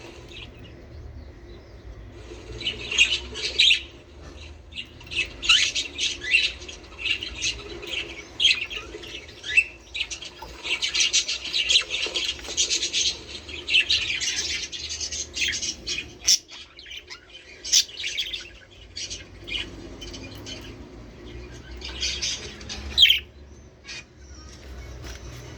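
Budgerigars chattering and squawking in rapid, sharp calls, coming in flurries with short pauses between them.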